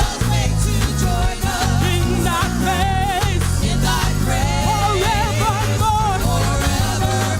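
A live gospel praise team singing with band accompaniment: several voices with wavering vibrato over a steady electric bass and drums.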